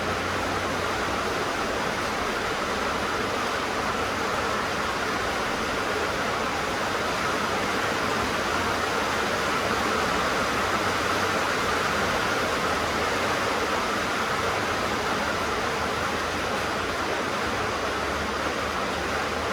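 Rain falling on a tin roof: a steady, even hiss with no breaks.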